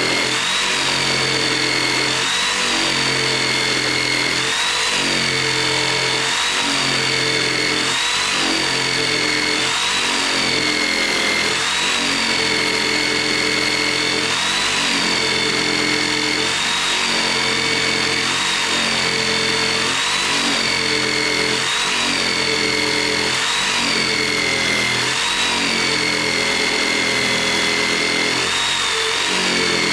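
Electric jigsaw cutting through a thick, dense wooden beam. The motor runs without a break, its whine dipping in pitch and recovering every second or two as the blade labours through the hard wood.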